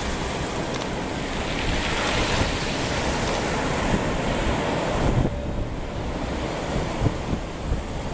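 Surf washing on a beach, with wind buffeting the microphone; the hiss of the water thins out about five seconds in.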